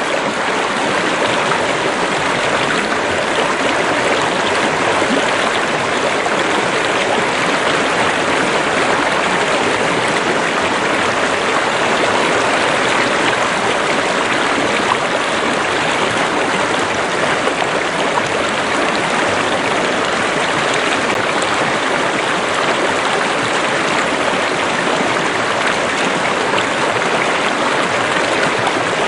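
Steady rush of water in a stream or river flowing over stones, an even, unbroken sound.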